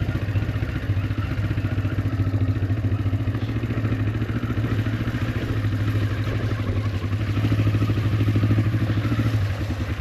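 Honda CL450 parallel-twin motorcycle engine running steadily on a rough trail. It grows louder about seven and a half seconds in, then eases off near the end.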